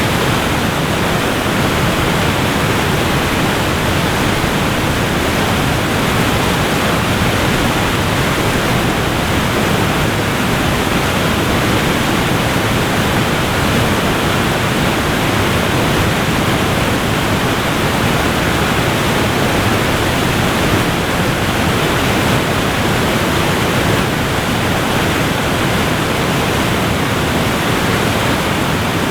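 Waterfall pouring, a steady dense rush of falling water with no breaks.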